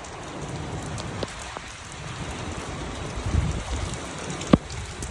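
Steady rain falling, with a few sharp drip-like taps; the loudest tap comes near the end.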